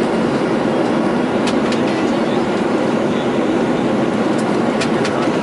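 Steady, loud rumbling noise heard from inside a moving vehicle, with a few faint clicks.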